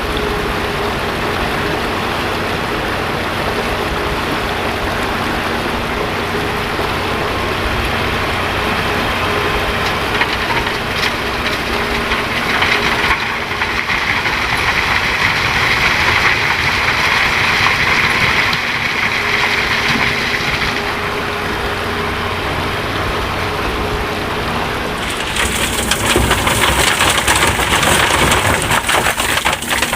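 Diesel engine of heavy earthmoving machinery running steadily. A louder rushing sound swells over the middle stretch, and near the end a harsher crackling rush sets in.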